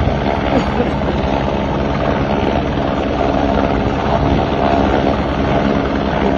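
Heavy rain falling steadily: a loud, even downpour noise, with a steady low hum underneath.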